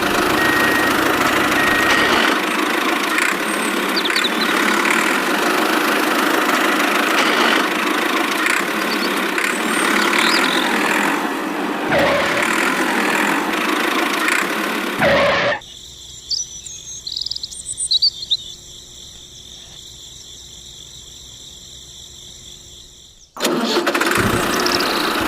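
Tractor engine running loud and steady. It cuts off suddenly about 15 seconds in, leaving a much quieter stretch with a few faint high chirps, and starts again abruptly near the end.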